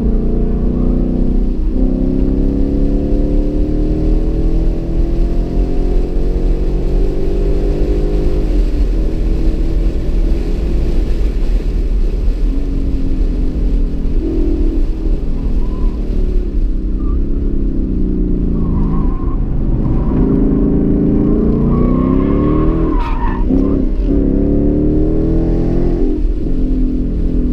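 2015 Mustang GT's 5.0-litre V8 running hard on track, its pitch climbing steadily through a gear for several seconds, then falling and rising again and again as the car brakes, downshifts and accelerates through corners. A brief high tire squeal rises and wavers about three quarters of the way through.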